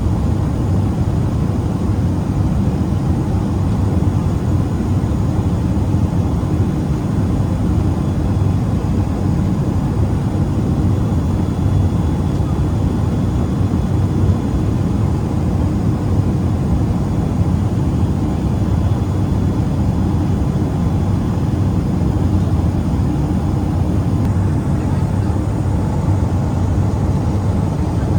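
Steady drone of a Boeing 777-300ER's cabin in flight: engine and airflow noise with a deep, even rumble and no changes in level.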